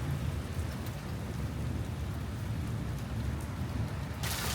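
Thunderstorm rain pouring steadily, with a deep low rumble underneath and faint scattered ticks of drops striking. About four seconds in, the sound turns abruptly hissier and brighter as a heavier downpour takes over.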